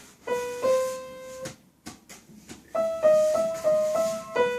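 Piano playing a slow melody of single notes, each struck and left to ring out. A few sharp clicks fall in a short pause about halfway.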